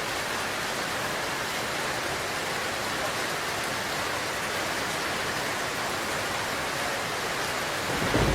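Steady, even hiss with no distinct strokes or tones; a louder low rumble comes in near the end.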